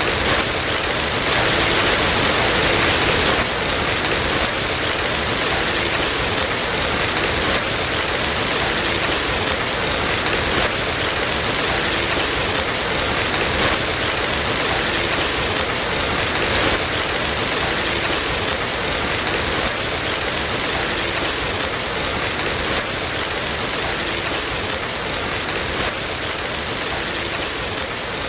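Steady, dense rain falling on a surface, a little louder about two seconds in.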